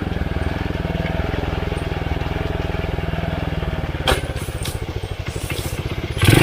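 Underbone motorcycle's small single-cylinder engine running steadily at low revs on a dirt trail, with a sharp knock about four seconds in.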